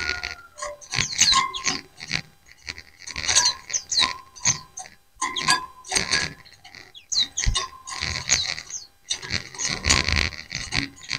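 A flock of white-eyes (pleci) chirping and twittering over one another in rapid bursts of high, quick notes and short glides, with brief pauses between the bursts.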